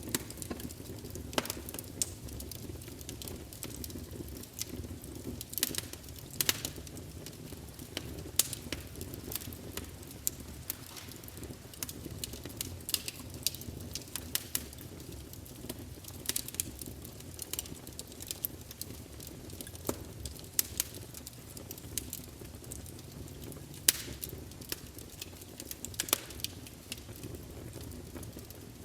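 Wood campfire burning, with a steady low rumble of flames and irregular sharp crackles and pops.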